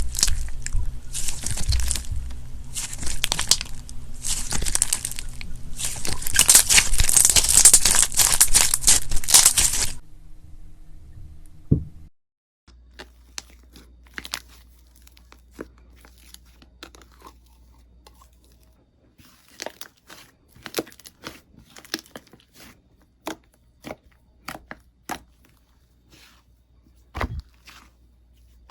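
Crunchy slime being squeezed and pressed, a loud crackling crinkle in repeated strokes about once a second. About ten seconds in it cuts to much quieter slime play with scattered small pops and clicks.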